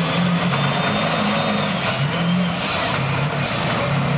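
Work stock pickup truck's engine running hard under load in a truck pull, with a high whistle over it that holds, dips about two seconds in, then wavers and starts to fall near the end.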